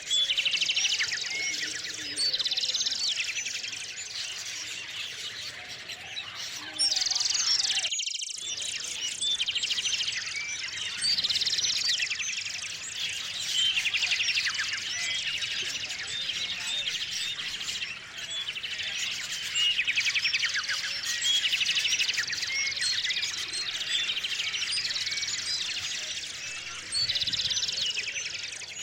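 Small songbirds chirping and trilling, several at once, in a steady, overlapping chorus of short high calls and rapid trills.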